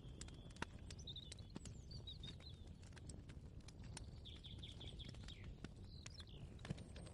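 Faint ambience of small birds chirping, with one quick trill about four seconds in. Scattered light clicks and knocks sound over a low steady rumble.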